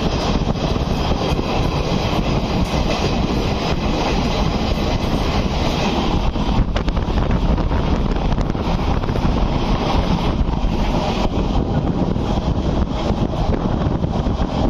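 Passenger train running on rails, heard from an open coach doorway: a steady rumble and rattle of wheels and coaches, with wind buffeting the microphone.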